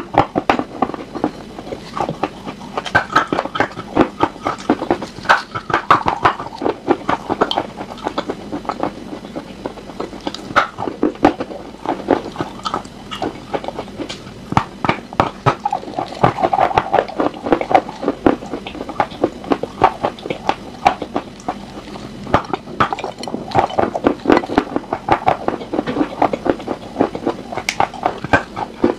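Close-miked chewing of a hard, crunchy chalk-like piece, with a continuous run of crisp crunches and crackles and wet mouth sounds.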